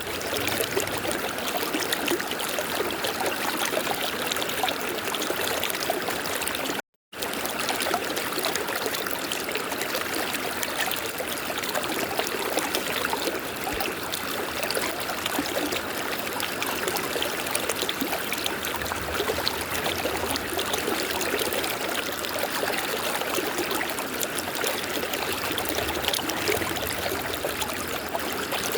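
River water flowing steadily, a continuous rush and trickle. The sound cuts out for a split second about seven seconds in.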